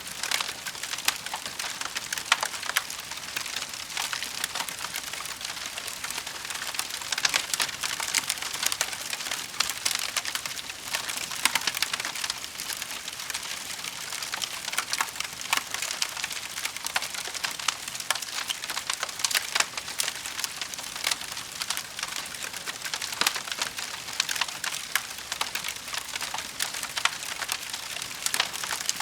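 Wood fire crackling steadily: a constant hiss dotted with many small sharp pops and snaps of burning logs.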